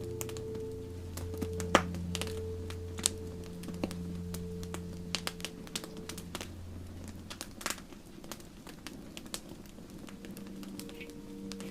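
Campfire crackling, with irregular sharp pops of burning wood, one louder snap early on, over soft ambient music of slow held notes. A low held note fades out about two-thirds of the way through.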